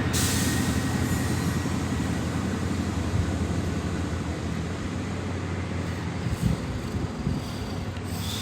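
High Speed Train with Class 43 diesel power cars pulling out of the station. Its engines give a steady low drone that slowly fades as it moves away.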